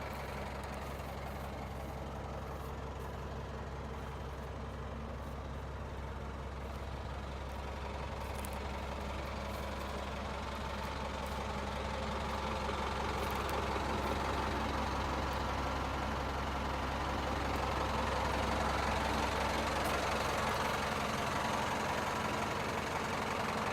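Diesel engine of a 1991 Freightliner FLD112 truck tractor idling steadily, growing somewhat louder about halfway through.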